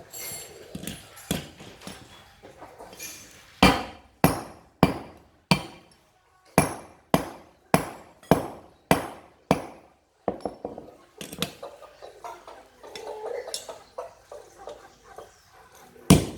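Hammer blows on steel, driving the pins out of a farm machine's cutting blades. They come in a steady run of about two sharp, ringing strikes a second for several seconds, then scattered lighter taps, and two loud blows near the end.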